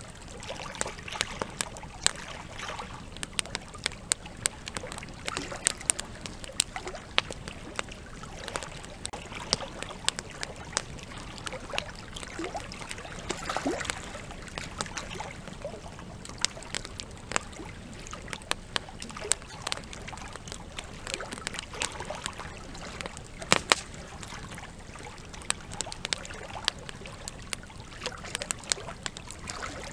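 Wood campfire crackling with frequent irregular sharp pops, over the steady rush of a flowing river.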